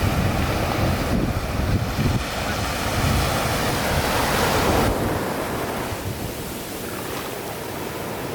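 Sea waves washing onto the shore, a surge that builds to about five seconds in and then eases, with wind rumbling on the microphone.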